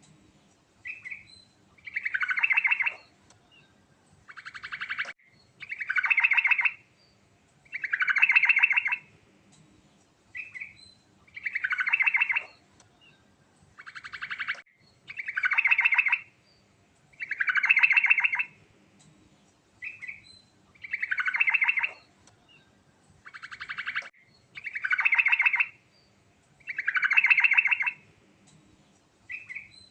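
Yellow-vented bulbul singing: loud, rapid trilled phrases about a second long, repeated roughly every two seconds without a break, with short single notes between them.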